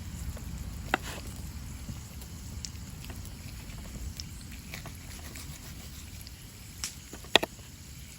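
Low steady rumble with three sharp clicks or snaps, one about a second in and two close together near the end, the last the loudest.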